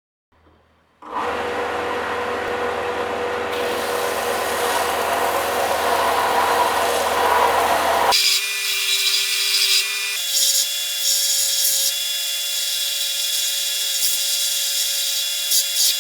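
Power tool abrading rust off metal parts, a steady grinding hiss over a motor hum. About halfway through it changes abruptly to a brighter, higher hiss with a steady whine.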